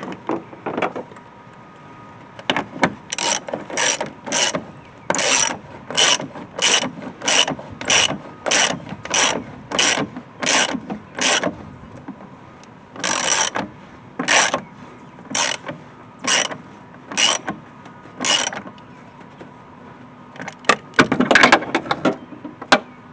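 Hand ratchet wrench swung back and forth to tighten a bolt, each stroke a short burst of pawl clicks, about two strokes a second. Two long runs are split by a brief pause, and a quicker flurry of clicks comes near the end.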